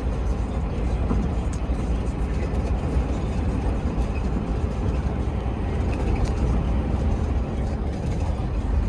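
Heavy truck driving, its diesel engine and road noise heard from inside the cab as a steady low rumble.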